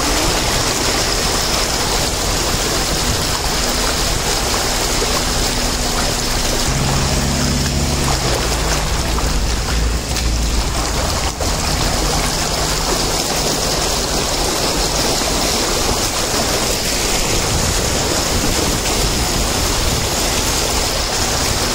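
Steady rushing noise of heavy rain and water, with a low hum underneath that shifts in pitch about seven seconds in.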